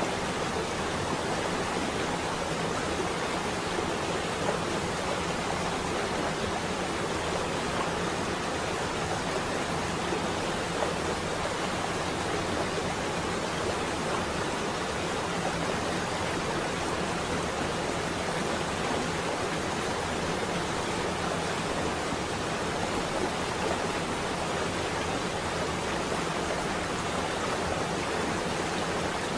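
Steady rain on a window: an even, unbroken hiss.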